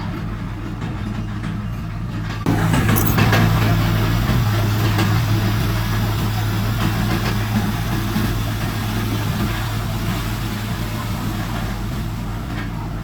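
Heavy diesel earthmoving machinery running with a steady low engine drone. About two and a half seconds in it suddenly gets louder, with added hiss and rattle, then slowly eases back.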